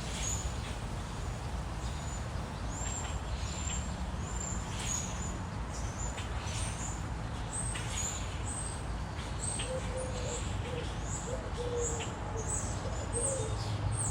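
Small birds chirping outdoors: short, high-pitched chirps repeating about once or twice a second throughout. From about ten seconds in, a lower, short repeated call joins them, over a steady low background rumble.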